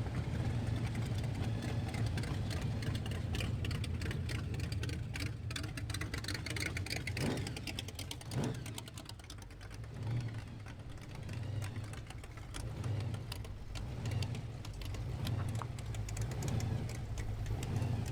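A car engine running with an uneven, pulsing exhaust note, revved up twice around the middle.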